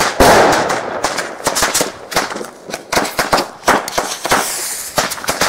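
Firecrackers and fireworks going off in a dense, irregular string of sharp bangs, several a second. A loud blast at the start fades over about a second.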